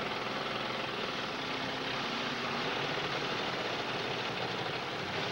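Demolition-derby car engines running steadily, a dense mechanical noise, as the cars push against each other.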